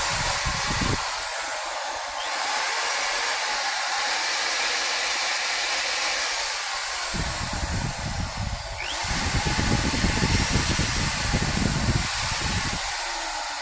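DCA AJZ05 500 W corded electric drill running continuously with no load, its motor easing slightly twice, about two seconds in and again near nine seconds, and picking back up. The motor runs smooth and quiet, with no harsh noise.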